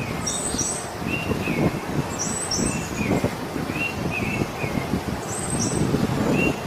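Birds chirping in short calls that come in pairs every second or two, some high and thin and some lower, over a steady low rough rumbling noise.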